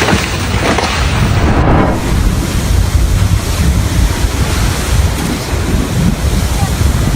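Strong wind buffeting the microphone: a heavy low rumble with a rushing hiss over it. For the first couple of seconds a different hissing noise plays, and it cuts off abruptly.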